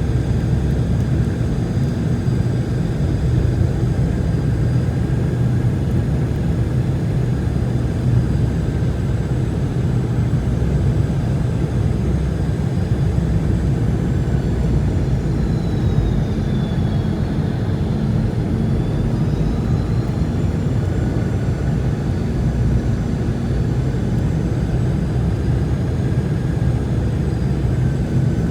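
Boeing 717 cabin noise: a steady rush of its rear-mounted Rolls-Royce BR715 turbofans and airflow, with a faint high engine whine that dips in pitch about halfway through and then climbs back as the thrust changes.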